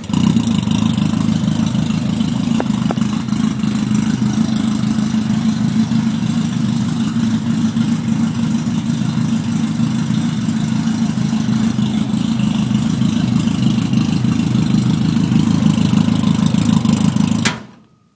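Legends race car's four-cylinder Yamaha motorcycle engine, just fired up, running at a steady idle, then shut off near the end.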